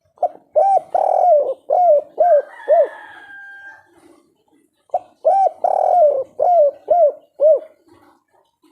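Spotted dove (tekukur) singing its 'kuk 3' song: two cooing phrases, each a few coos, a longer drawn coo, then three short 'kuk' notes at the end. A fainter high whistling call sounds between the two phrases.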